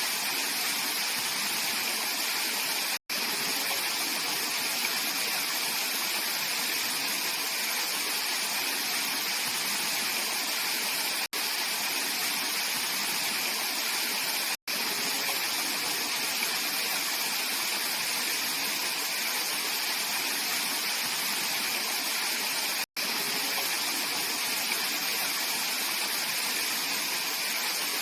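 Mountain stream of clear water rushing steadily over rocks, an even hiss with no other sound, broken by four momentary dropouts to silence.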